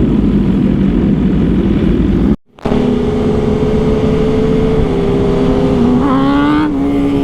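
Motorcycle engine running while riding, with wind and road rumble; the sound cuts out briefly about two and a half seconds in, then comes back as a steady engine drone, with a short rising rev near the end.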